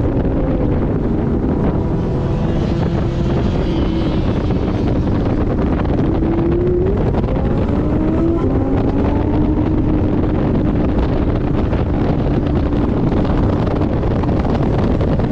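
Porsche 718 Boxster GTS engine pulling on track: its note climbs, drops sharply about seven seconds in as it changes gear, climbs again, then holds nearly steady. Heavy wind and road noise run under it throughout.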